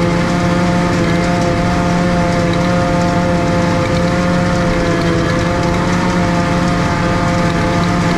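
Tractor engine running steadily at high, constant revs.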